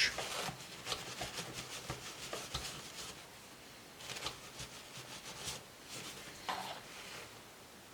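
Faint handling of small laptop parts: scattered light clicks and rubs as a motherboard and its heatsink are handled.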